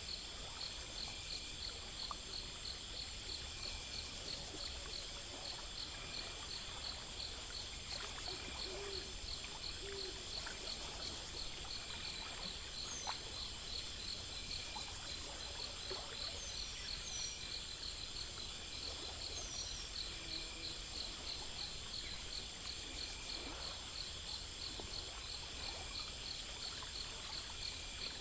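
Insect chorus: several crickets or similar insects chirping in steady, evenly repeating pulses over a continuous high buzz, with a few short falling whistles now and then.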